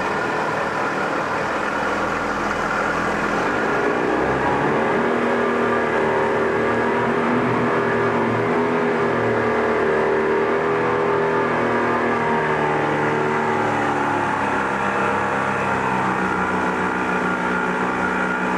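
2004 Yamaha 25 hp four-stroke, two-cylinder outboard running in forward gear in a test tank. Its engine speed rises about four seconds in, holds, then drops back toward the end.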